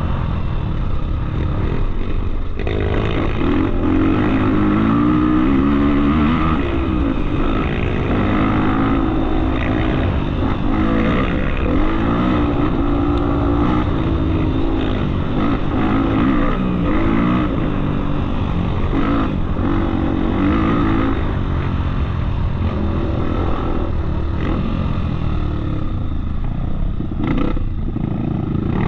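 Off-road motorcycle engine revving up and down again and again while being ridden.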